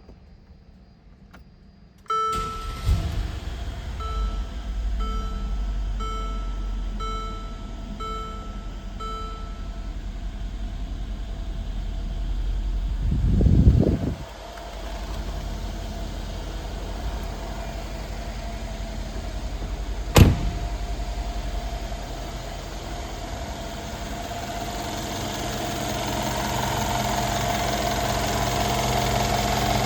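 A 2016 Mercedes-Benz SL550's twin-turbo V8 cranks and catches about two seconds in on a cold start, then settles to a steady fast idle. A warning chime sounds about once a second for the first several seconds, the engine swells up and back down once near the middle, and a single sharp click comes about two thirds of the way through.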